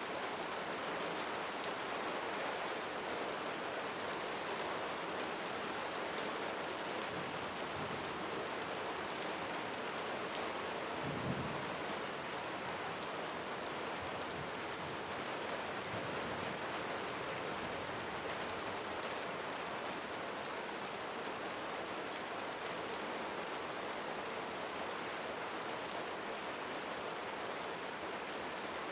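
Steady rain falling on leaves, with fine scattered drop ticks. About eleven seconds in there is one brief low thump.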